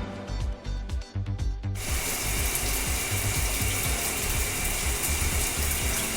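Cartoon sound effects over background music: rapid ratchet-like clicking for a little under two seconds, then a steady hissing spray of water.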